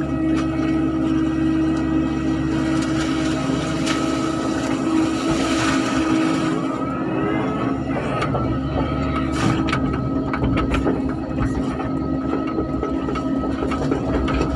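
Excavator engine running steadily, with a rising whine about halfway through and a few knocks.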